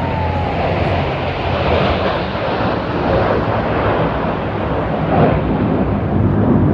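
Military jet aircraft flying over, a loud, steady rush of jet engine noise that swells slightly about five seconds in.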